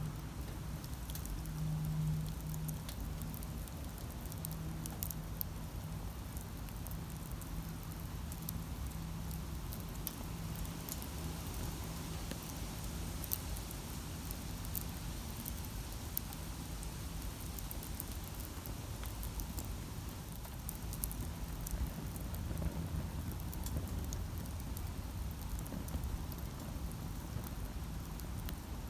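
Wood campfire burning, with scattered sharp crackles and pops over a low rushing bed. A low steady hum is strongest in the first few seconds and fades away after.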